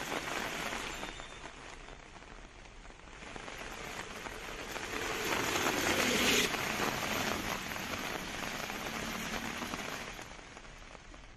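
Heavy rain falling, a steady hiss that swells to its loudest about six seconds in and fades near the end.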